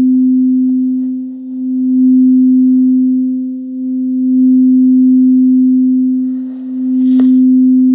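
Singing bowl sounding one steady low tone with a fainter overtone an octave above, its loudness swelling and fading about every two and a half seconds.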